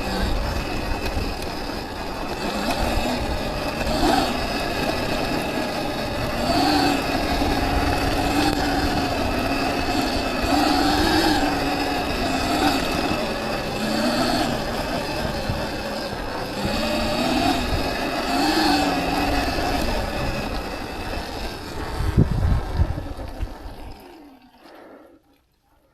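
Viper S electric dirt bike's motor whining, its pitch rising and falling with the throttle, over a low rumble from riding rough ground. The sound dies away near the end as the bike comes to a stop.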